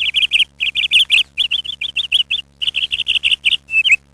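A bird chirping in quick runs of short, high notes, with brief pauses between runs.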